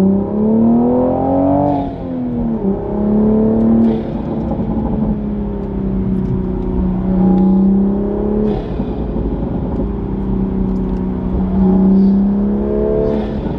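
Toyota Supra's B58 turbocharged straight-six with an Armaspeed carbon-fiber cold air intake, heard from inside the cabin under acceleration. The revs climb and drop twice in quick succession in the first few seconds, then hold fairly steady with a few swells, and short rushing sounds come now and then.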